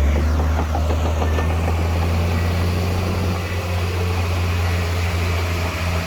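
Heavy earthmoving machine's diesel engine running steadily with a deep, low hum.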